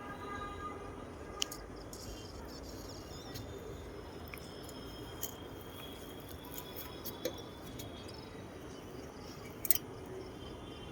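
Steady background noise, with a few faint sharp clicks, the clearest about a second and a half in and near the end, and faint thin high tones.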